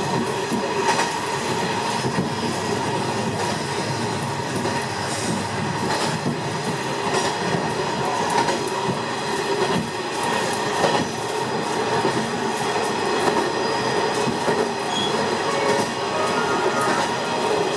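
Train running on the rails, heard from on board: a steady rolling noise with scattered short clicks from the wheels over the track.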